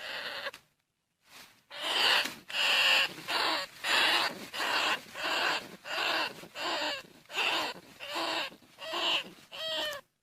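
Bandicoot rat calling: a long run of short, harsh squealing calls, about two a second, the last few with a clearer pitched ring. A call of the kind played to lure field rats in.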